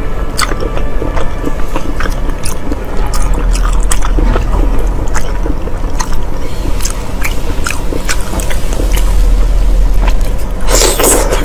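Close-miked chewing and biting of deep-fried pig intestine, many short wet clicks and smacks over a low steady hum, with a louder bite near the end.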